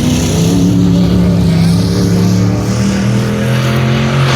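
Full-size race trucks' engines running hard at high revs, more than one engine heard at once. Near the end the pitch falls sharply as a truck passes close or lifts off.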